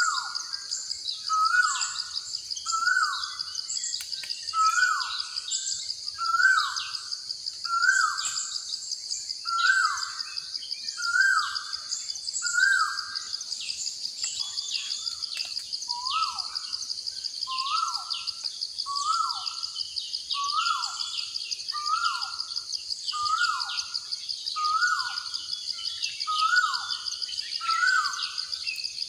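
Nature ambience of birdsong: one bird repeats a short call about once a second, each note dropping in pitch, with a pause of about two seconds midway. Other birds chirp higher up, over a steady high-pitched insect trill.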